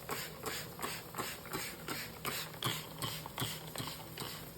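Cloth wiping and rubbing a stainless steel refrigerator door dry, in quick even strokes about three a second.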